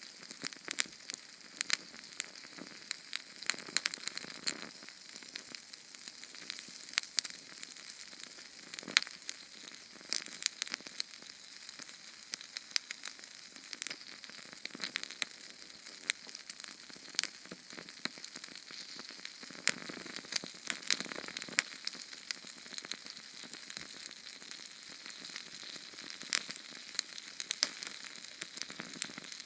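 Small Sterno canned-fuel flame burning with a steady hiss and frequent sharp, irregular crackles and pops.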